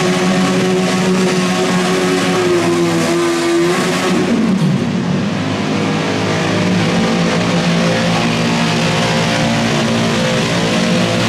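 Modified garden tractor pulling engine running at high revs under load. About four seconds in its pitch drops sharply, then climbs back and holds high and steady.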